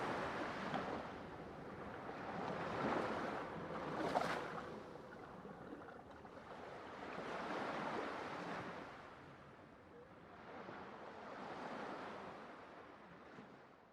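Ocean waves breaking and washing on a shore, in slow swells every few seconds, with a sharper crash about four seconds in. The surf fades out toward the end.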